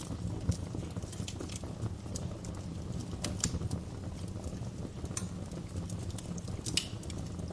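Wood fire burning in a fireplace: irregular sharp crackles over a steady low rumble, with a few louder pops about halfway through and near the end.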